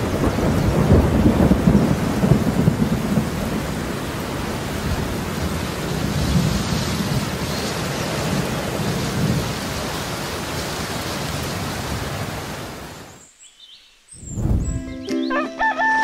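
Heavy rain falling steadily, with thunder rumbling through the first few seconds. The rain fades out about three seconds before the end, and music starts near the end.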